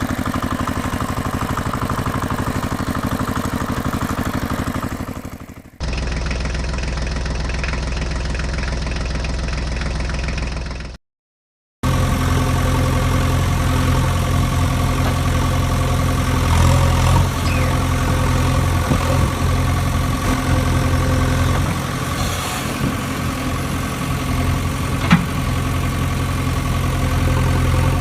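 Engine running steadily at idle in three cut-together stretches, with a brief silence about eleven seconds in.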